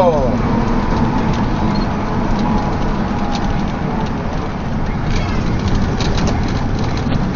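Steady engine and road noise of a motor vehicle driving.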